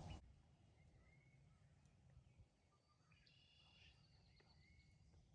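Near silence outdoors, with faint songbird chirps and short whistled calls about a second in and again from about three seconds.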